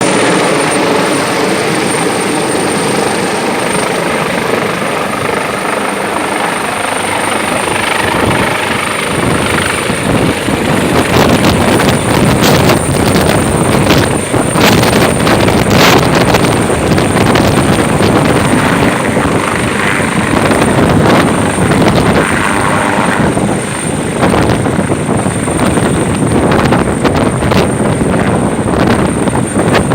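Medical helicopter's turbine and rotor running, with a steady high whine throughout. It gets much louder and rougher from about eight seconds in.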